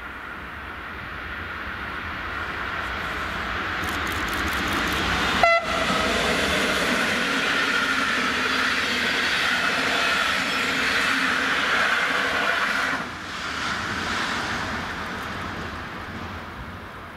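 Locomotive-hauled passenger train approaching and passing close by, with a very short horn blast about five and a half seconds in. The rumble and rail noise of the coaches grow, hold loud for several seconds, drop at about thirteen seconds and fade away.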